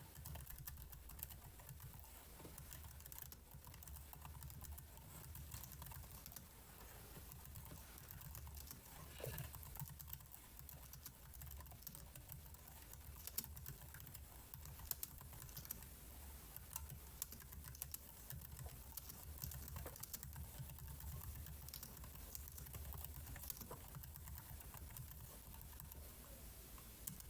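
Computer keyboard typing: faint, irregular keystroke clicks scattered throughout, over a low steady hum.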